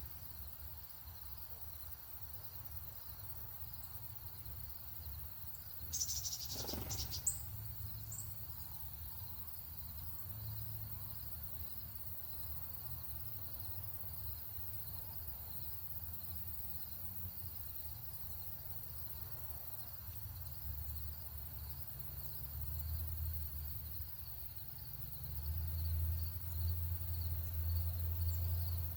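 Crickets chirping in a steady, evenly pulsing high chorus, over a low background rumble that grows louder near the end. About six seconds in, a brief louder sound with a couple of high chirps cuts through.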